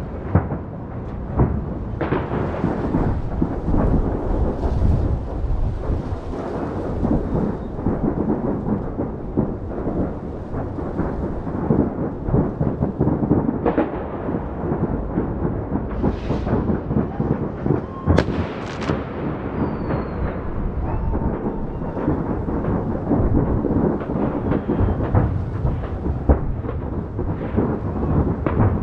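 Fireworks display going off in a dense barrage: overlapping booms run together into a continuous rumble, with sharp cracks throughout and a few brighter crackling bursts past the middle.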